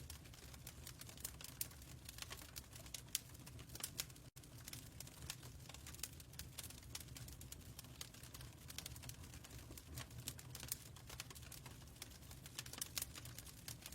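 Wood fire crackling: irregular small clicks and pops over a steady low rumble.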